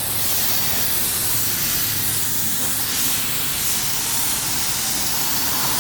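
High-pressure water spray hissing steadily against a car as it is washed, the spray sweeping a little stronger and weaker.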